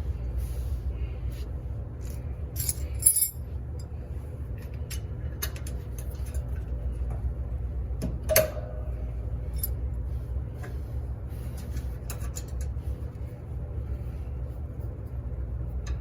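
Steady low machine hum with scattered light metallic clinks and clicks, and two louder clanks about three and eight seconds in, the second ringing briefly.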